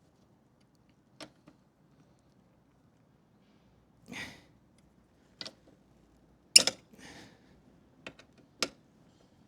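Hand tools working on motorcycle exhaust fasteners: a series of separate clicks and knocks with a short scrape about four seconds in. The loudest knock comes about two-thirds of the way through and is followed by a brief rattle.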